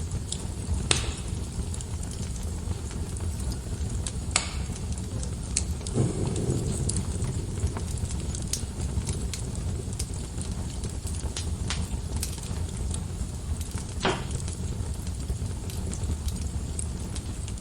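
Wood fire burning in a fireplace: a steady low rumble of flames with scattered sharp crackles and pops, the loudest pops about a second in, a little past four seconds and around fourteen seconds, and a duller thump about six seconds in.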